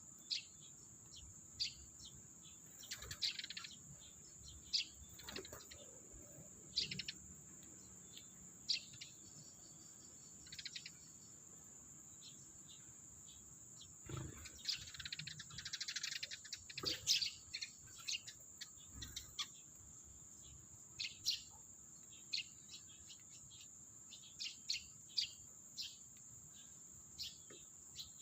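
Sparrows chirping in short, irregular calls, busiest around the middle, over a steady high-pitched whine.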